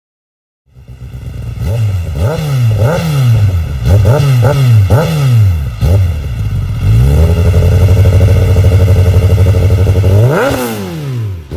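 Inline-four superbike engine revved in the stand: a string of quick throttle blips, then held at high revs for a few seconds, then one last sharp rev and drop.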